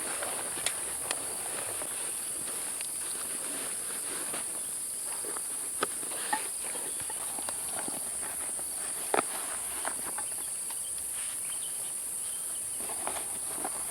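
Steady high-pitched buzzing of jungle insects, with scattered sharp snaps and rustles from movement on the forest floor, a few clicks standing out about six and nine seconds in.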